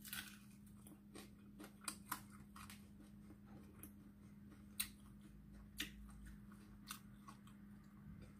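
Quiet eating by hand: soft chewing of fried fish with scattered crisp crunches and clicks, over a faint steady low hum.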